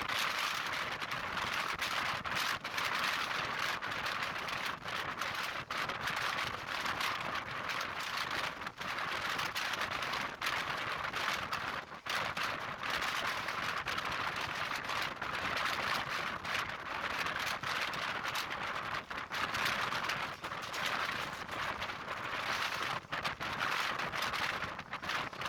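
Steady rushing noise of a passenger train running at speed, heard from on board: wind and rail noise as a dense hiss with many brief dips.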